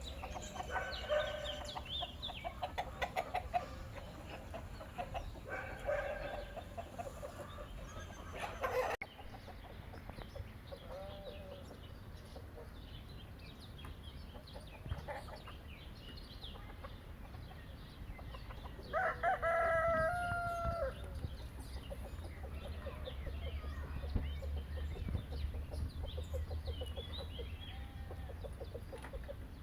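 Chickens clucking, with a rooster crowing once, about two seconds long, around twenty seconds in.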